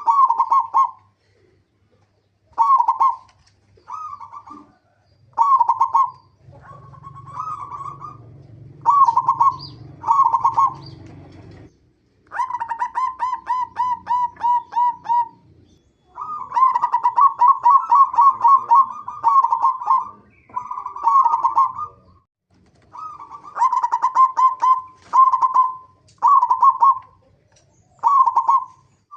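Zebra dove (perkutut) cooing: short repeated phrases of fast staccato coos on one pitch, broken by brief pauses, with longer rolling runs about halfway through and again just after.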